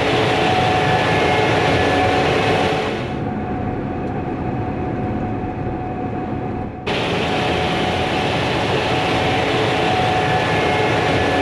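Combine harvester running steadily at work: a dense machine drone with several constant whines. It goes muffled from about three seconds in, then turns suddenly clear again a few seconds later.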